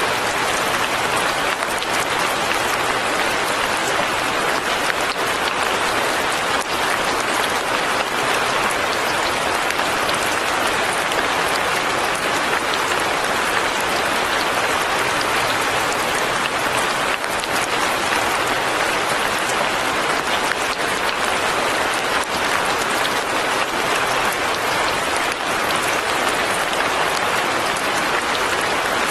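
Steady rain falling, a dense even patter of drops on leaves and a cabin roof.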